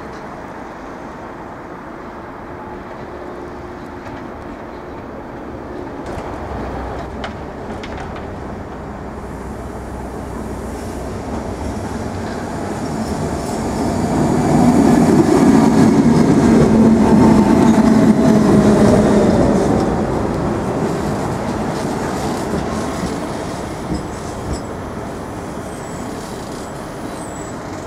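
SBB RBDe 560 electric regional train running into the platform and braking. Its wheel and motor noise builds to a loud peak about halfway through, with a whine that drops in pitch as it slows, then eases off as the train draws to a stop. Two sharp clicks come near the end.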